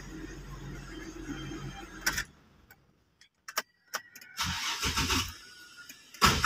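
A car's ignition being worked with the key: a steady hum cuts out with a click about two seconds in, a few key clicks follow, the starter cranks briefly, and near the end the engine catches and runs loudly.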